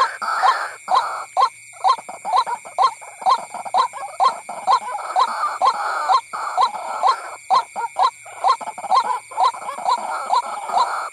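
White-breasted waterhen calling: a quick, steady run of harsh repeated 'kruak' notes, about three a second, with a couple of short breaks.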